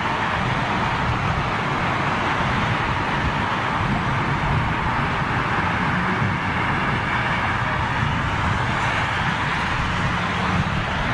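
Steady airport ambience dominated by jet aircraft engine noise: an even, unbroken rushing noise with no distinct events.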